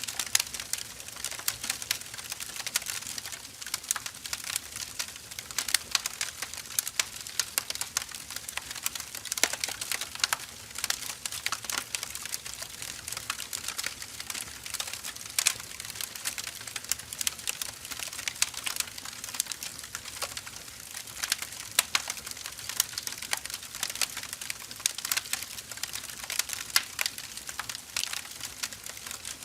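Wood fire burning, with dense, irregular crackling and popping from the firewood over a steady hiss.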